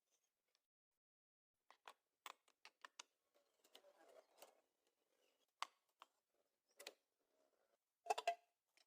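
Near silence broken by scattered faint clicks and taps, with a short cluster of louder clicks near the end.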